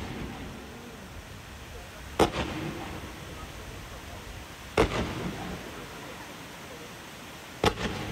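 Fireworks going off at close range: three sharp bangs about two and a half seconds apart, each trailing off briefly.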